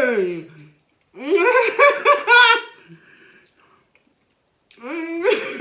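A woman's drawn-out shout of "Kenny!" falling in pitch, then a burst of laughter about a second in and another near the end.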